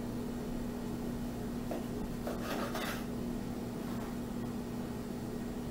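A knife sawing through a sandwich of bread, a rasping rub that is strongest about two and a half seconds in, over a steady low hum.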